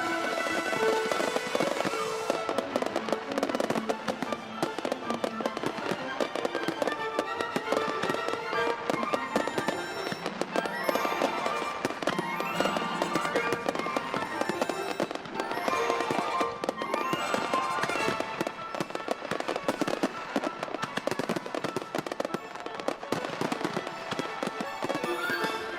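Fireworks crackling and popping in rapid, dense volleys over background music.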